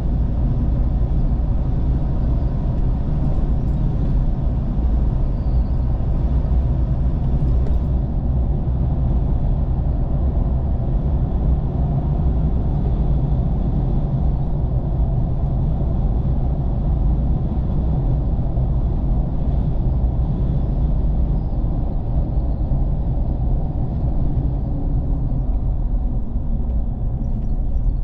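Steady low rumble of a vehicle on the move: engine and road noise, unbroken and even throughout.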